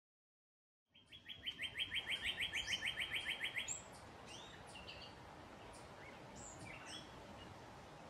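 Songbirds singing: a fast, even trill of about ten notes a second lasting a couple of seconds, then scattered short high chirps over a faint outdoor hiss.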